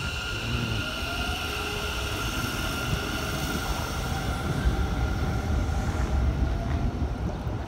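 Electric train crossing the steel truss railway bridge overhead: a steady whine of several pitches over a rumble of wheels on the bridge that grows heavier about five seconds in.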